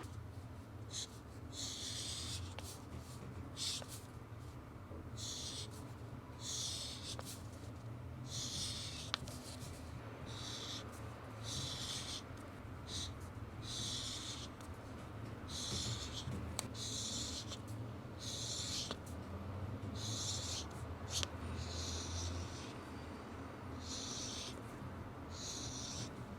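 Repeated scratchy strokes of a drawing tool on paper, about one stroke a second, over a steady low room hum.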